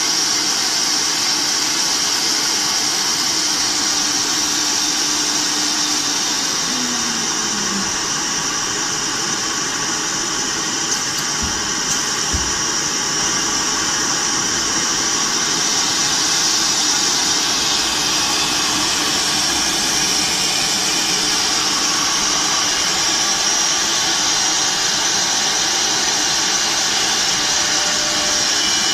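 Multi-head CNC router running: a steady high spindle whine over continuous machine noise. A lower tone drops in pitch about seven seconds in, and there are a couple of brief knocks around twelve seconds.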